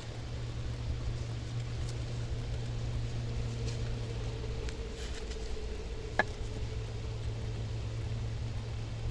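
A single sharp knock about six seconds in, a wooden baton striking the spine of a Mora knife driven into firewood while batoning, over a steady low background rumble.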